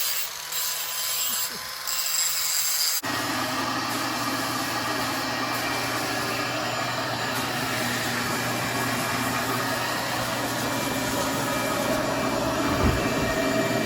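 A motorised machine running steadily. About three seconds in the sound changes abruptly from a thin high whine to a fuller, steady hum.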